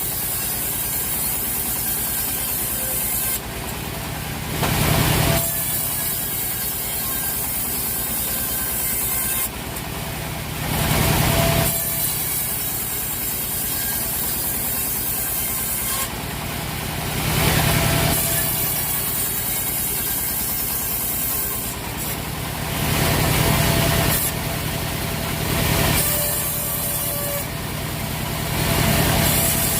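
Sawmill machinery running with a steady engine-driven drone, broken by a loud rushing surge about every six seconds.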